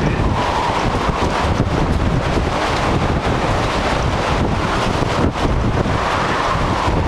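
Strong gusting wind buffeting the microphone: a loud, steady rumble with no let-up.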